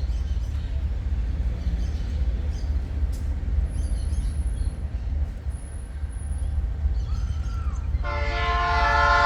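Freight train rolling past with a steady low rumble; about eight seconds in, a locomotive air horn sounds a loud blast that carries on to the end.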